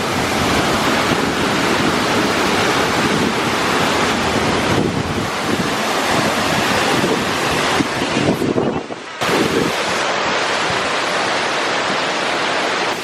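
Large waterfall gushing at close range: a loud, continuous rush of falling water, with wind buffeting the microphone.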